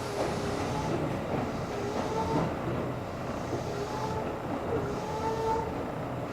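Tobu Railway electric train running, heard from inside the car: a steady rumble of wheels on rail with a faint whine that comes and goes.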